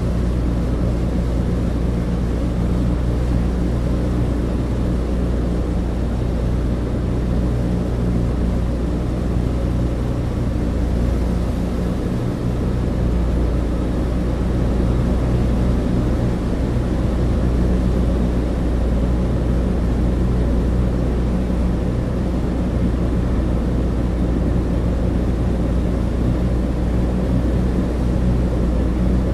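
Cabin interior of a Douglas DC-3 in flight: the steady, unbroken drone of its twin radial piston engines and propellers, heard through the fuselage, with a low, even engine hum under a rushing airflow noise.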